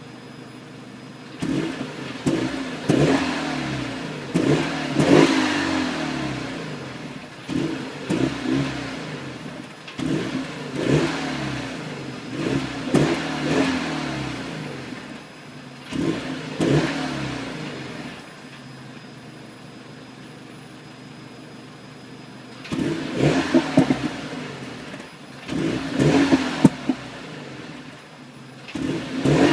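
Renault Mégane 3 RS 250's 2.0-litre turbocharged four-cylinder engine blipped up repeatedly from a steady idle, with sharp exhaust pops and crackles as the revs drop. It settles to a steady idle for a few seconds past the middle, then blips and pops again near the end.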